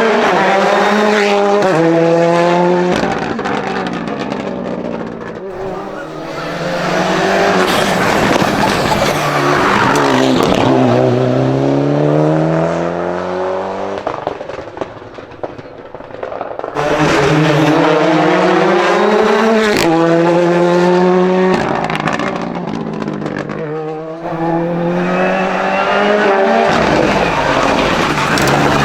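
Hill-climb race cars at full throttle, the engine note rising through quick upshifts, one gear after another. One car passes and fades, then another comes through loud. There may be some tyre squeal.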